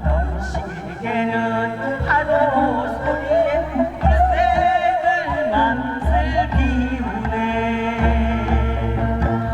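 A singer performing a Korean Namdo minyo (southern folk song) with a wavering, heavily ornamented vocal line over a backing accompaniment with a steady low beat.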